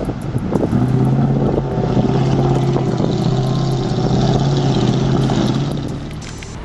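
Heavy truck engine running at a steady pitch, with some noise around it, fading somewhat near the end.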